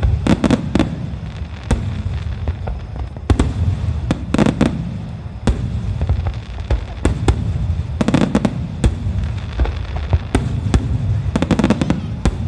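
Fireworks star mine going off: shells bursting one after another, with sharp bangs in clusters every few seconds over a continuous low rumble of echoing explosions.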